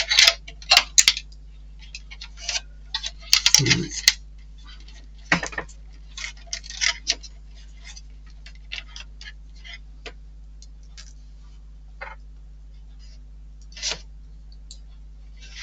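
Small plastic model-kit parts and tiny screws being handled and fitted by hand: irregular light clicks, taps and rustles, busiest in the first few seconds. A steady low electrical hum runs underneath.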